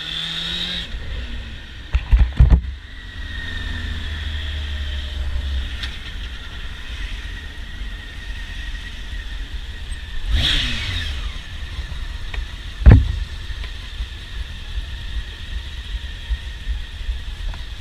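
Motorcycle on the move, heard on board: engine running under a steady rush of wind and road noise. There are two sharp knocks about two seconds in and a third, the loudest, near thirteen seconds, with a louder swell of passing traffic shortly before it.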